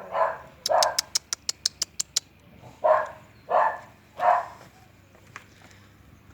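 A dog barking a few times, with three evenly spaced barks in the middle. About a second in there is a quick run of about ten sharp clicks.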